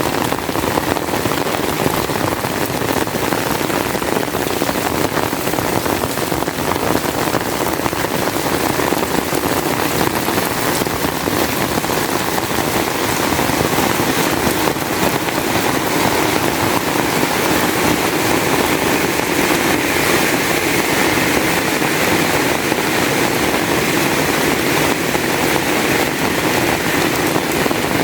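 Heavy rain falling steadily, a dense even hiss of drops with no pauses. The sound turns a little brighter from about halfway through.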